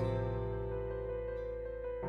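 Soft background music: sustained piano or keyboard chords, with a new chord struck just before the start and held.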